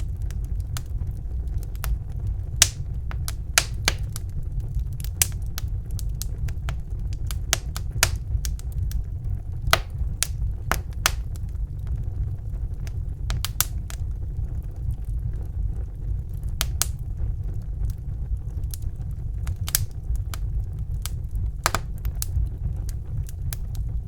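Wood fire crackling, with sharp irregular pops and snaps over a steady low rumble of the flames.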